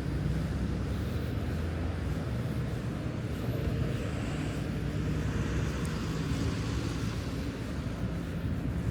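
Road traffic: a steady low engine rumble of vehicles on a wide city boulevard, with a vehicle's tyre and engine noise swelling as it passes about halfway through.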